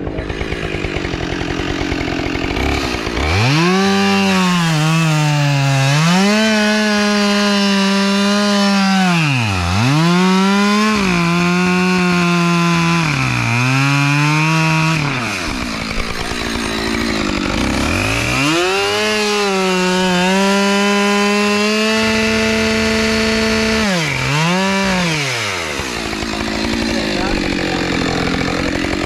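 Chainsaw cutting up a fallen tree trunk, running at high speed through each cut. Its pitch drops away sharply and climbs back several times as the trigger is released and squeezed again between cuts.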